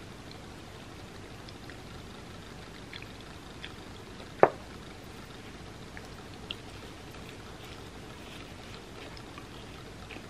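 Close-miked eating sounds of pizza crust dipped in garlic butter: soft, wet mouth sounds and small scattered clicks over a steady faint hiss, with one sharp click about four and a half seconds in.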